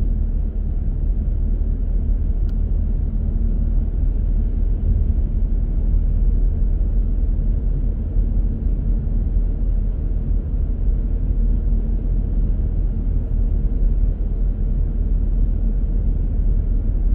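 A car driving at a steady speed: an even, low rumble of road and engine noise.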